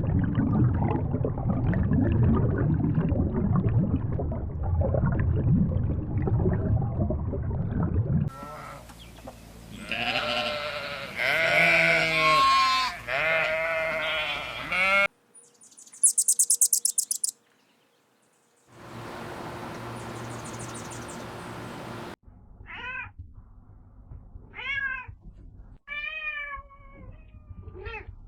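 A run of different animal calls cut one after another: a low rumbling noise for the first eight seconds, then wavering pitched calls, a short burst of very high rapid clicks, and near the end a string of short calls that rise and fall in pitch.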